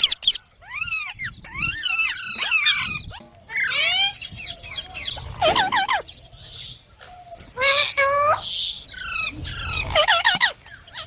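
Green parrot calling in a string of short, chattering calls that bend up and down in pitch, with brief pauses between them.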